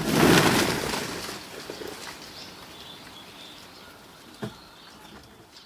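Sparrows' wings flapping as they take off from a bird feeder: a rush of noise that fades away over about two seconds. A single light knock follows about four and a half seconds in.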